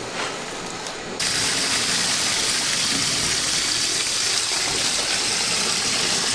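Water gushing in a strong steady stream, which gets louder and fuller about a second in and then holds steady.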